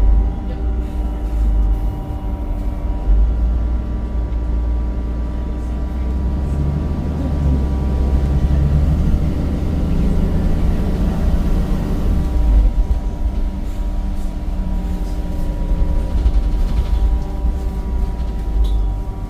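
Cummins diesel engine and ZF automatic gearbox of a Temsa Avenue single-decker bus heard from inside the passenger cabin while driving: a heavy low rumble with several steady whining tones over it.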